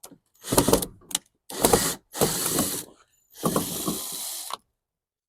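A ratcheting hand tool clicking in several short runs, from about half a second in until the last run stops with a second left, as a screw is worked out.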